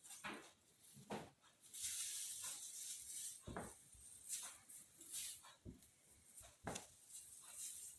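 Small, scattered noises from a Devon Rex kitten close to the microphone: short clicks and soft hissy sounds, with no clear meow.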